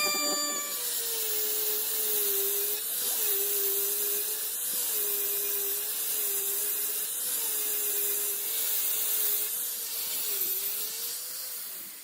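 Handheld electric power tool running steadily, its motor pitch sagging briefly every second or two as it is pressed against the work, with a hiss of abrasion over it. It spins down and stops near the end.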